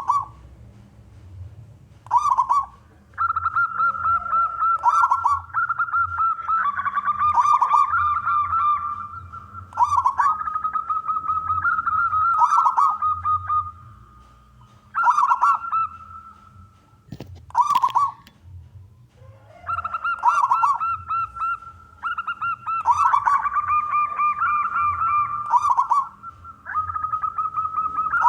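Zebra dove (perkutut) cooing in repeated phrases, each a few short coos running into a long trilled note. There is a single sharp click about two-thirds of the way through.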